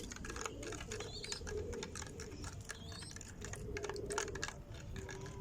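Irregular light clicks and taps from small objects being handled, with a couple of faint rising bird chirps behind them.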